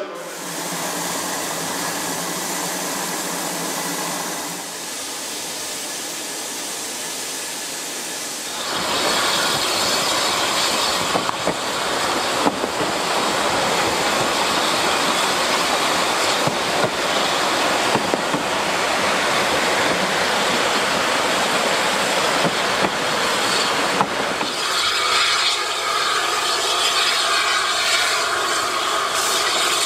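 Narrow-gauge steam train on the move: a steady rushing run of wheels on rail with sharp clicks over the rail joints and some wheel squeal. The noise jumps much louder about a third of the way in and stays loud.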